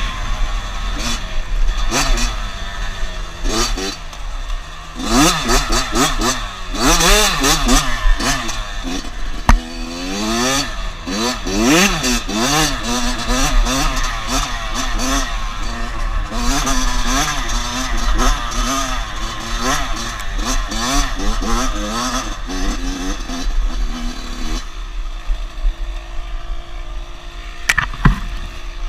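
A dirt bike's engine being ridden hard: its note rises and falls again and again with the throttle and gear changes. About 25 seconds in, it settles to a steadier, lower and quieter running note.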